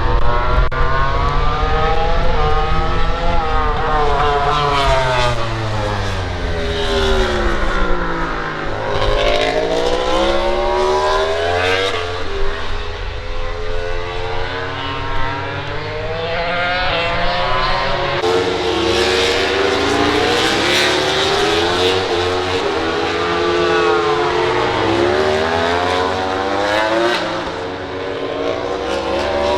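Several MotoGP racing motorcycles' 1000cc four-cylinder engines running hard on track, overlapping one another. Their pitch repeatedly climbs as they accelerate and slides down as they brake and downshift, with short pops along the way.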